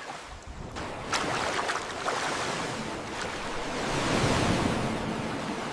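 Ocean waves and wind, a rough sea sound effect: a broad rushing wash that builds about a second in and swells again near four seconds, with a few sharp splashes.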